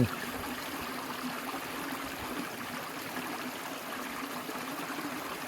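Steady rush of flowing stream water, an even wash of noise with no distinct splashes.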